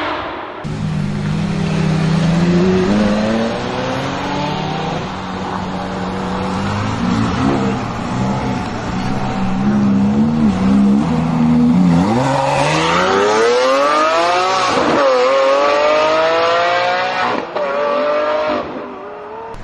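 A high-performance supercar engine running at low revs with small throttle changes. About twelve seconds in it accelerates hard: the revs climb steeply, drop sharply at an upshift, and climb again before another shift near the end.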